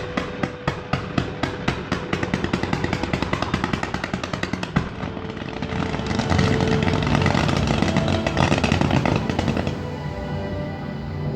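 Fireworks going off in a fast string of sharp bangs that speeds up over the first five seconds, then a dense, continuous barrage for a few seconds before it thins out near the end.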